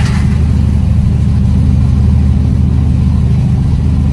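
Car engine running steadily under load as the car pushes through floodwater, a constant low rumble heard from inside the cabin.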